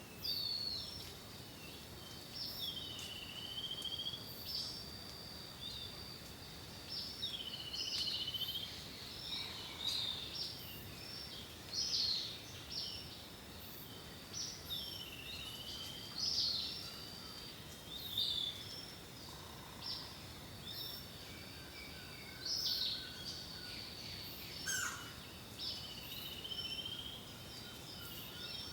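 Songbirds singing: short, high whistled phrases, many swooping down in pitch, repeated every second or two, over a steady thin high-pitched tone and a faint background hiss.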